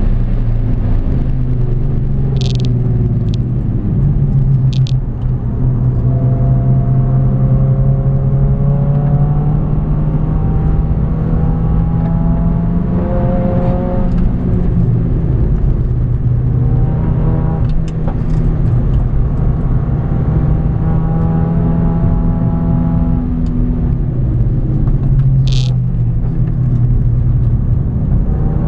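Mercedes-AMG A45's turbocharged four-cylinder engine under hard acceleration, heard inside the cabin on a race track: the engine note climbs slowly through long pulls, then drops and climbs again several times. A few short sharp ticks sound over it.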